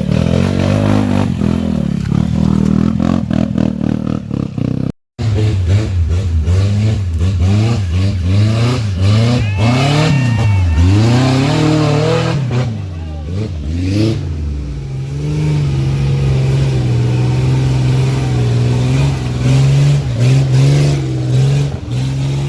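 Dirt bike engines revving hard in mud, the pitch rising and falling again and again, then holding steadier through the second half.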